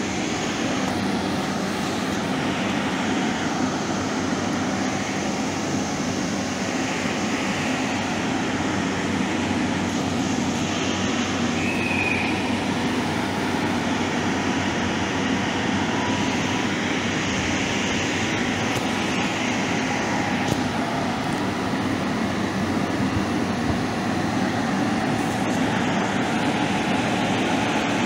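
A train running on the rails: a steady rumble and hiss of wheels and running gear, with a faint short squeak about twelve seconds in.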